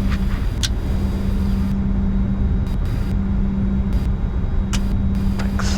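Steady cockpit rumble and hum of a Bombardier Challenger 605 taxiing, its General Electric CF34-3B turbofans at idle, with a few faint clicks.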